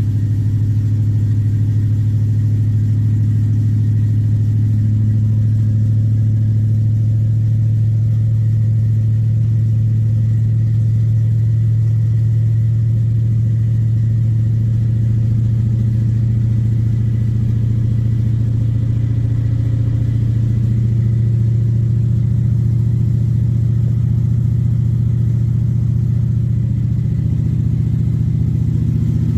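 Truck engine running steadily, a deep even drone that barely changes.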